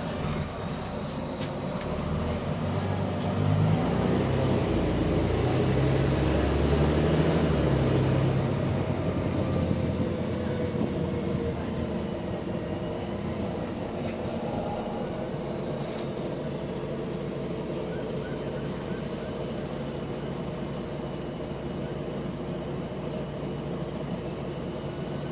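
Volvo B9TL double-decker bus engine pulling hard for several seconds, stepping up in pitch under a high whine that rises and then falls, then settling to a steady, quieter run. The bus has an exhaust leak.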